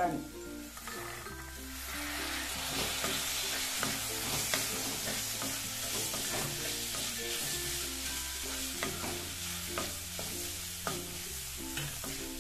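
Green peas and sliced onions sizzling in hot oil in a metal kadai, stirred with a spatula that scrapes and taps against the pan. The sizzle swells about two seconds in, after the peas go in.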